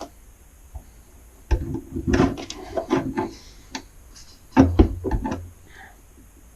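Knocking and clattering of hard objects being handled, in two bursts: one about a second and a half in, and a louder one near the end.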